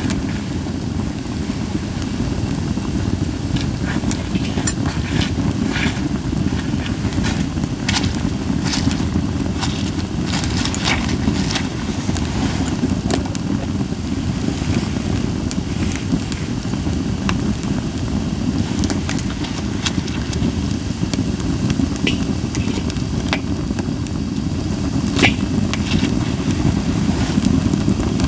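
Campfire of Japanese white pine crackling and popping at scattered moments, the sharpest pop about 25 seconds in, over a steady low rumble. The crackle is dry and even, with little hissing.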